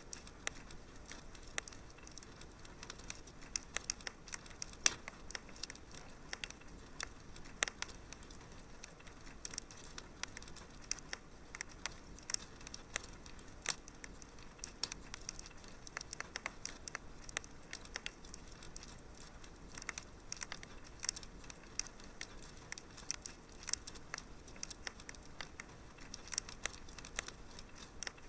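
Fireplace fire crackling: many irregular small pops and snaps over a soft steady hiss.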